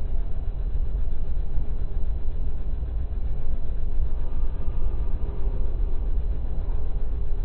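Freight cars rolling past on the rails, a steady low rumble of wheels and trucks with no let-up.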